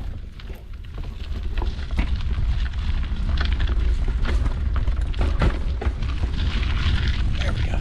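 Wind buffeting an action camera's microphone as a mountain bike rides along a trail, a steady low rumble, with frequent clicks and rattles from the bike over rough ground that grow busier about two seconds in.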